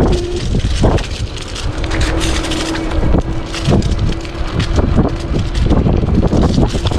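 Wind buffeting the camera microphone on a moving e-bike, with a steady hum from the electric assist motor and frequent knocks and rattles from riding over a bumpy, leaf-covered trail.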